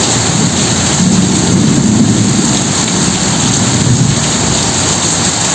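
Steady heavy rain with a low rumble of thunder rolling beneath it, swelling about a second or two in.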